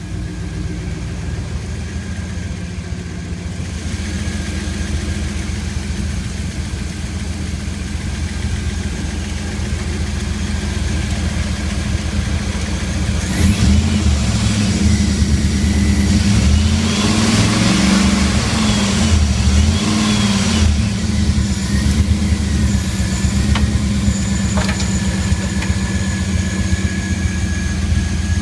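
2001 Dodge Ram's 5.9-litre engine running at idle, then revved up and down several times near the middle before settling back to a steady idle.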